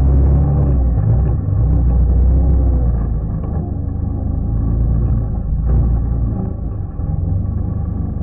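Quad (ATV) engine running, its revs rising and falling over the first couple of seconds. It becomes somewhat quieter from about three seconds in.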